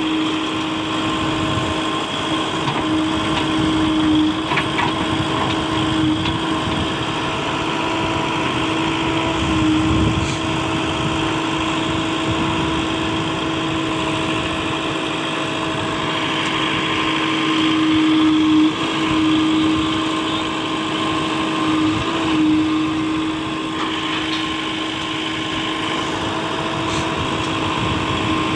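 Heavy work machine's diesel engine running steadily with a constant whine over it, swelling briefly a few times as if under light load.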